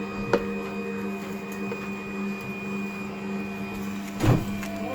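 Cold-press juicer motor running with a steady hum while it presses quartered apples. A sharp click comes just after the start, and a louder knock about four seconds in.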